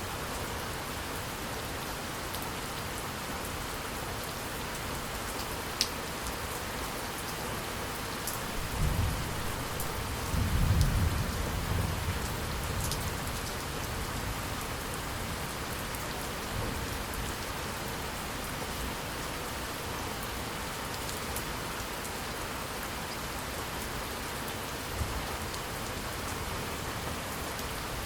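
Steady rain falling, with a low roll of thunder building and fading between about nine and twelve seconds in. A few sharp drip ticks stand out over the rain.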